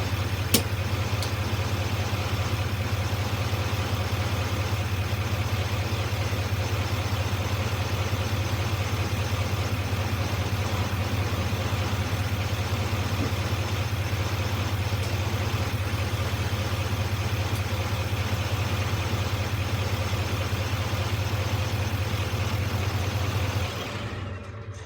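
Vehicle engine idling steadily with a low hum, dying away near the end; one sharp click about half a second in.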